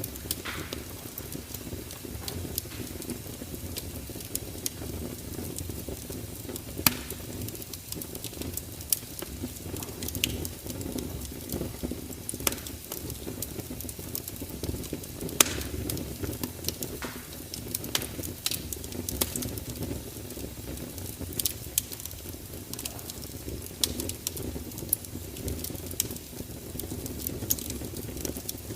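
Wood fire crackling: frequent sharp pops and snaps over a steady low rumble, with two louder pops about a quarter and half way through.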